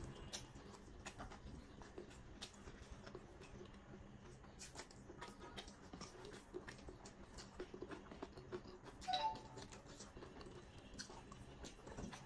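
Faint, close-up eating sounds of chicken biryani eaten by hand: wet mouth clicks and smacks of chewing, with many small clicks spread throughout and one brief louder mouth sound about nine seconds in.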